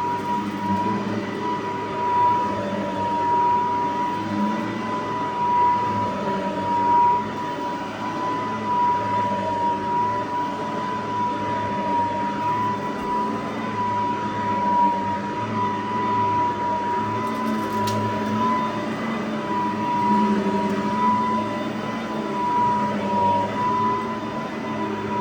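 Cordless Riccar SupraLite vacuum running steadily, with a high motor whine held at one pitch over a lower rush of air that wavers up and down.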